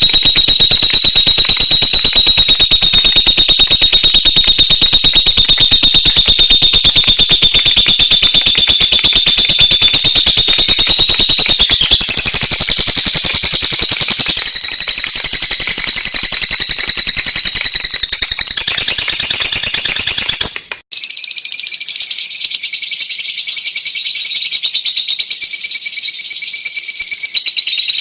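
Fischer's lovebird singing: a long, rapid buzzing trill held on a steady high pitch, changing its pattern about twelve seconds in. An abrupt cut about twenty-one seconds in gives way to a thinner, higher trill.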